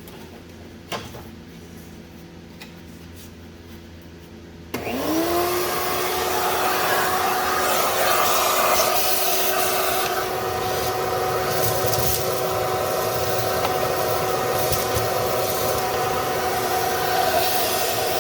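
A few light clicks, then about five seconds in a shop vac starts up. Its motor whine rises quickly and settles into a steady run with a loud rush of air as it sucks rat's-nest debris out of the starter opening.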